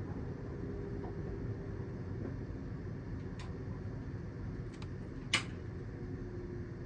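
Steady low hum like a ventilation fan running, with a few faint clicks and one sharp click about five seconds in.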